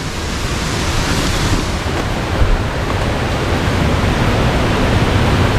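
Steady rushing of a rocky hill stream, loud and even, with a low rumble underneath.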